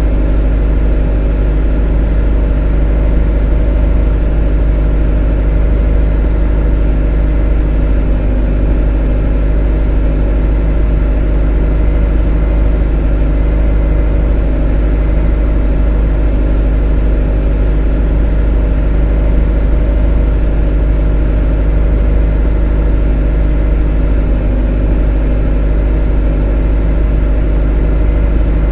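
Motor running steadily without change: a deep, constant hum with a stack of steady tones above it.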